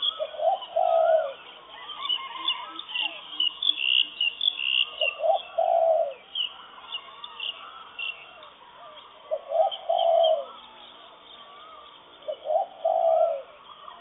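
Morning bird chorus: a low bird call comes four times, about once every four seconds, each under a second long, over continuous chirping and warbling whistles from smaller birds.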